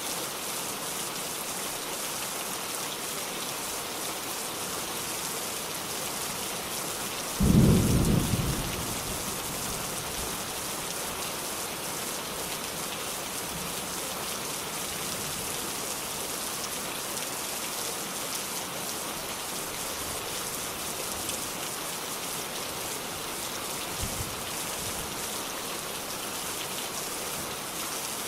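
Steady rain falling, with one sudden close thunderclap about seven seconds in that dies away within a second or two, and a faint low rumble near the end.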